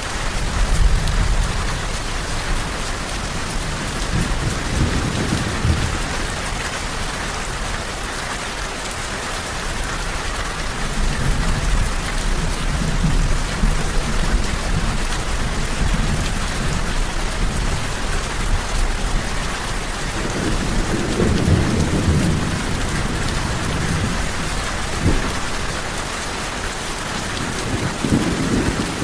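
Steady rain falling, with low rolling rumbles of thunder that swell and fade several times.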